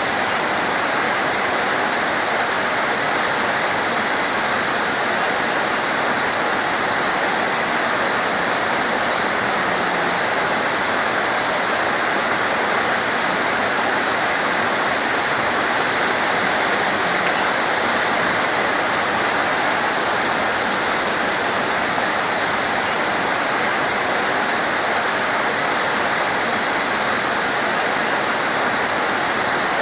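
Heavy torrential rain pouring down as a steady, dense hiss, with two faint sharp ticks, one about six seconds in and one near the end.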